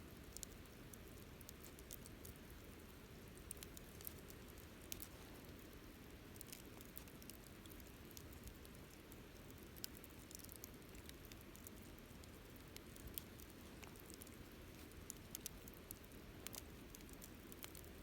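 Wood campfire burning, faint and quiet: scattered small crackles and pops at irregular intervals over a steady low background of the flames.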